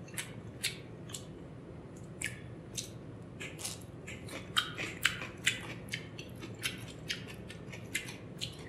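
Close-miked wet eating sounds of rice and chicken curry eaten by hand: short sharp mouth clicks and lip smacks from chewing, with rice squished between the fingers. The clicks come sparsely at first and thicken around the middle, after a handful goes to the mouth.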